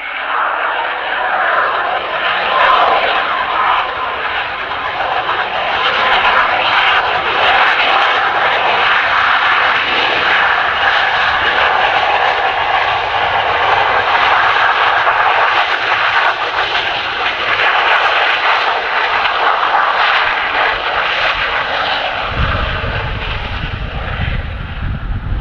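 Business jet's turbofan engines running at high power, a loud steady jet roar that builds over the first couple of seconds. A deep low rumble joins in near the end.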